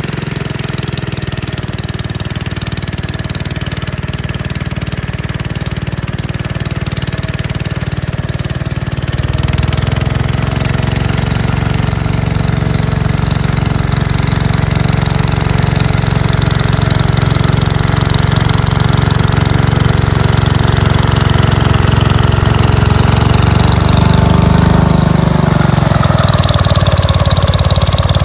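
Gravely Commercial 10A walk-behind tractor engine running steadily, most likely driving its snowblower attachment. It gets louder about nine seconds in, and its pitch dips and recovers near the end.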